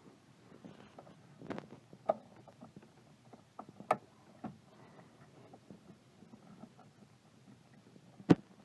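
Irregular clicks and knocks of hands working on parts, with one sharp knock near the end.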